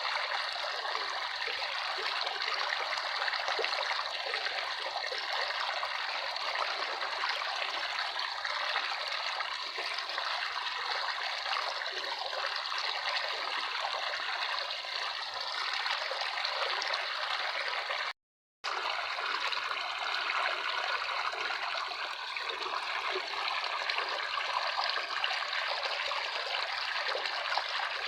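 Running water trickling steadily, like a small stream. The sound drops out completely for a split second about two-thirds of the way through.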